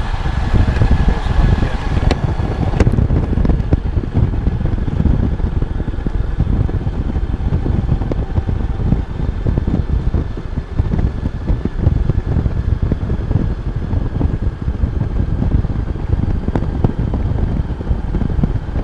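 Steady wind rush buffeting a helmet microphone on a moving Honda Goldwing motorcycle, the full-face helmet's visor open. The motorcycle's engine tone is faintly audible under the wind for the first few seconds, then is lost in it.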